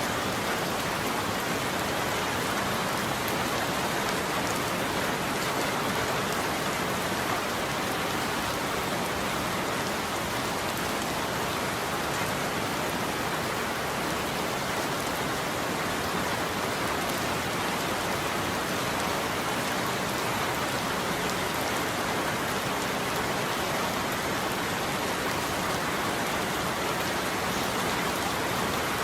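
Steady rain falling, a continuous even hiss of drops on a surface with no thunder.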